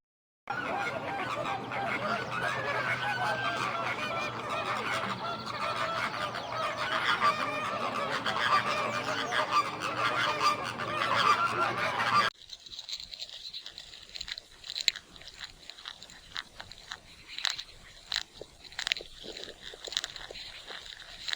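Many geese honking and calling over one another. About twelve seconds in, this cuts off abruptly to a much quieter run of scattered sharp clicks and crunches.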